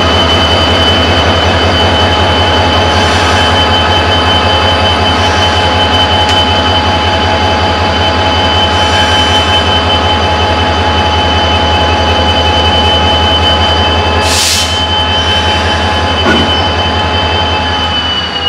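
Indian Railways express train with ICF coaches running at speed: a loud, steady rumble with a constant high whine over it, and a brief hiss about fourteen seconds in.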